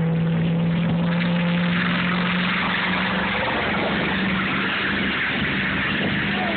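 Truck engine running at high revs, holding a steady pitch that steps up a little partway through, over a constant rushing hiss. The engine note drops away at the very end.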